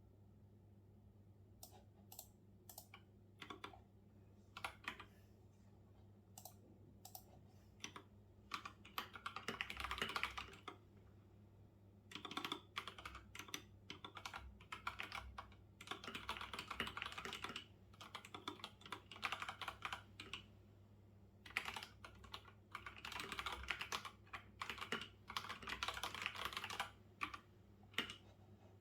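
Typing on a computer keyboard. It starts with a few scattered single keystrokes, then comes in quick bursts of rapid typing, one to three seconds long, with short pauses between them.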